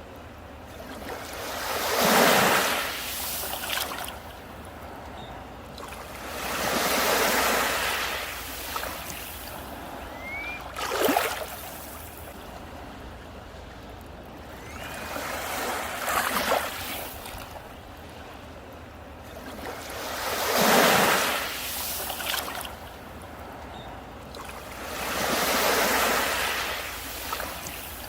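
Sea waves breaking and washing up a beach, each swell of surf rising and falling away, six surges about five seconds apart.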